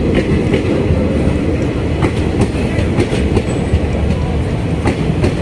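Express train's passenger coaches running through the station at speed without stopping: a steady rumble of wheels on the rails, broken by sharp clacks every second or so.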